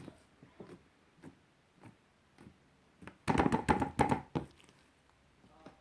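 Light-purple marbled slime being handled, with scattered soft sticky clicks, then a dense burst of clicking and crackling pops for about a second, about three seconds in.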